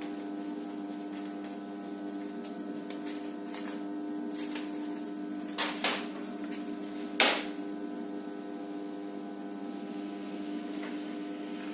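FR900 continuous band sealer running with a steady motor hum. Two sharp clicks come about six seconds in, and a louder one a second later.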